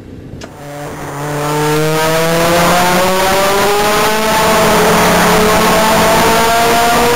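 Honda FD2 Civic with an RF Yamamoto GT-Exhaust Ultimate accelerating hard. The engine note starts about half a second in, grows loud and rises steadily in pitch, with a short dip in loudness about four seconds in.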